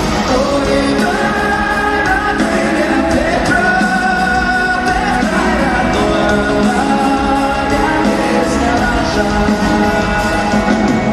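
Live rock-pop concert music with held sung notes over the band, picked up in a large arena.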